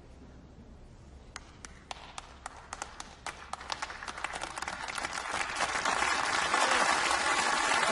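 Applause: a few scattered claps begin about a second in, come quicker and quicker, and swell into full, dense clapping near the end.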